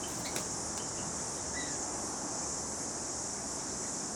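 Steady, high-pitched drone of insects, with a few faint, short bird chirps in the first half.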